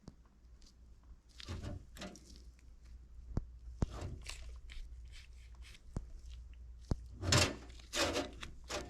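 Small carburetor parts fresh from an ultrasonic cleaner being handled on a workbench: scattered light clicks and knocks with short bursts of rustling, louder near the end.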